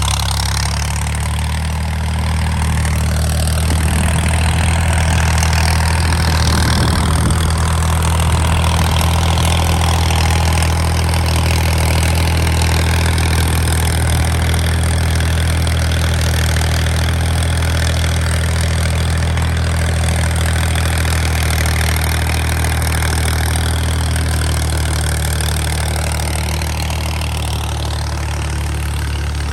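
Al-Ghazi 65 hp tractor engine running steadily at an even speed while working a rotavator, with a noisy churning hiss over the engine note.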